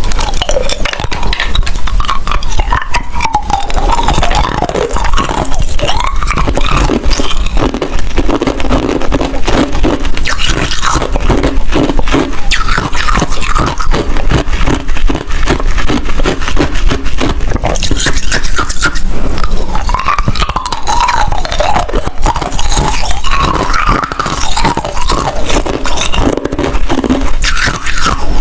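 Ice being bitten and chewed close to the microphone: a dense, uneven run of loud crunches and cracks.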